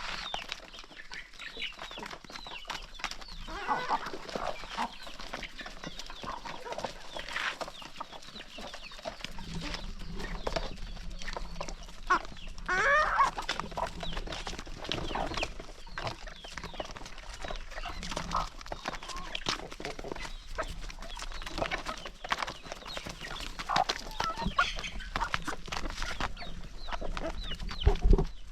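A flock of chickens clucking and calling while feeding, with many quick taps of beaks pecking at the feed. A low steady hum enters about a third of the way in, and a single loud thump comes near the end.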